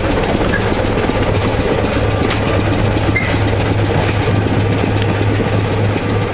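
Railway locomotive running steadily, a constant low hum with a few faint clicks.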